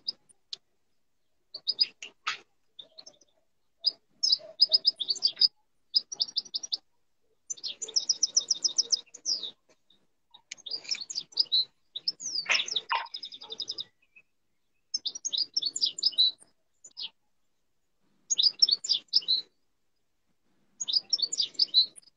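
A songbird singing a series of short, fast trilled phrases, each one to two seconds long, with brief pauses between them.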